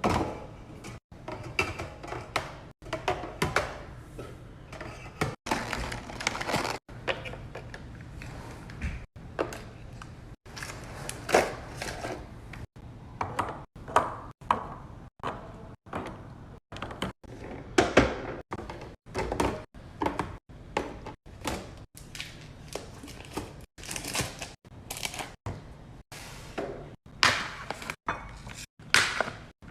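Knocks and thunks of food containers and bottles being set into a refrigerator, with fridge doors opening and closing, in quick snippets that break off abruptly every second or two.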